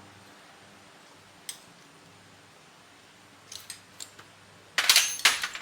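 Small metal objects clinking against each other: a single click about one and a half seconds in, a few light taps later, and a brief loud clatter of metal near the end.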